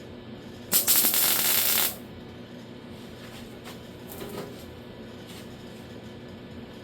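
A welder laying one short tack weld on an 18-gauge lower door skin repair panel: a crackling hiss about a second long that starts just under a second in and cuts off, followed by a few faint clicks.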